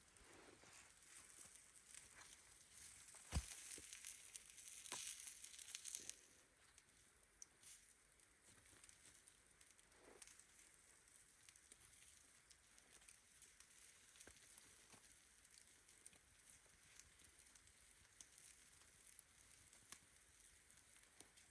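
Faint crackling and rustling, with one sharp click about three seconds in and a louder spell of crinkling just after it.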